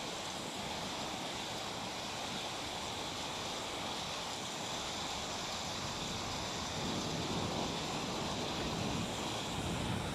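Rain falling steadily, an even hiss, growing a little louder about two-thirds of the way through.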